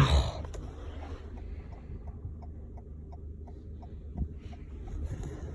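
2020 Toyota Corolla LE's 2.0-litre four-cylinder idling as a steady low hum, with light regular ticking about three times a second. A brief loud sound comes right at the start.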